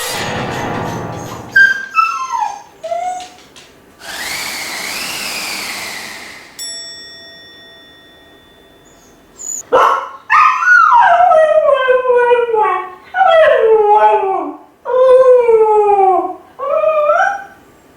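Kai Ken dog whining and then howling while left home alone: separation distress. Short falling whines come first, then, about halfway through, a run of about five loud howls, each sliding down in pitch.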